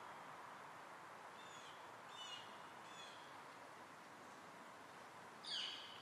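Small birds calling in woodland: a few short, high, falling chirps about one and a half to three seconds in, then one louder falling call near the end, over a faint steady rushing background.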